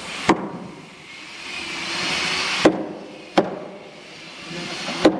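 Tool blows striking boat timber: four sharp, irregularly spaced strikes on wood. A rushing hiss swells between the first two.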